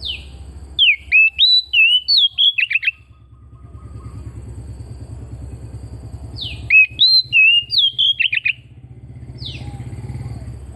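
Oriental magpie-robin singing: two loud phrases of quick, sharp, down-slurred whistles, one from the start and another past six seconds, then a lone note near the end. A steady low rumble runs underneath.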